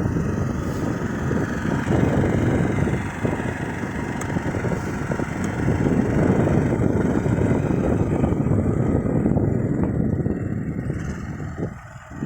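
Neva MB-23 walk-behind tractor's engine running steadily under load as the machine pushes through snow, then easing off near the end.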